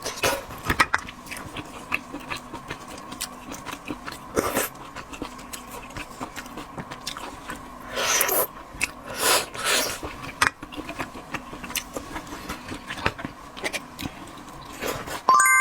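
Close-miked eating of seafood: chewing and biting with many small clicks and smacks, and a few longer, louder noisy stretches of mouth sounds. A short ringing tone with several steady pitches sounds just at the end.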